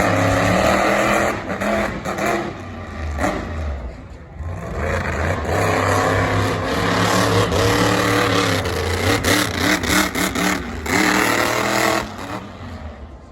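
Monster truck engine revving hard, the pitch climbing and falling with repeated throttle blips, easing briefly about four seconds in and dropping away near the end.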